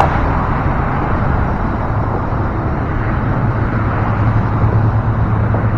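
Steady road traffic noise, with a low engine hum from a vehicle coming in about two seconds in and holding.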